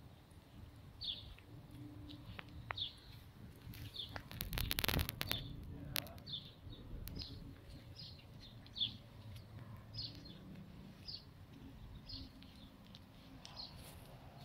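A bird chirping over and over, a short high call about once a second, over a faint low rumble. About four to five seconds in, a louder burst of rustling noise with clicks covers it briefly.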